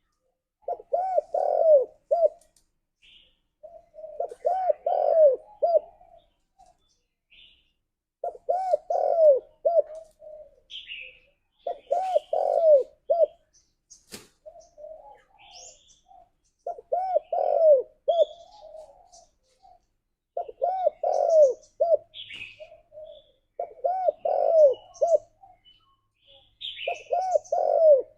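Spotted dove cooing: the same phrase of several low, rolling coos repeated about every four seconds, eight times. Faint high chirps of small birds sound between the phrases.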